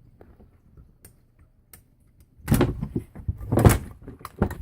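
Handling noise from a Well VSR-10 airsoft rifle being taken apart. A few faint clicks come first, then about two and a half seconds in a loud run of rubbing and knocking as the rifle's parts are worked apart.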